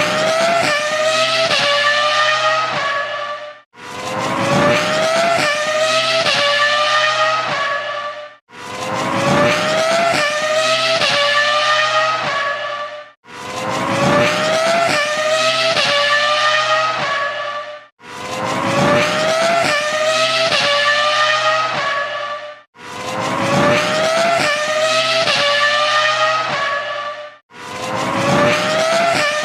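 Formula 1 car engine accelerating at high revs through several quick upshifts, the pitch climbing and dropping back at each shift. The same run of a few seconds repeats about six times, each time rising out of a brief gap of silence.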